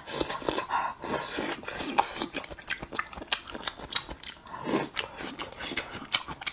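Close-miked eating: a person chewing a mouthful of noodles and soft pieces from a spicy soup, with many wet mouth clicks and smacks. A short hum comes about three-quarters of the way through.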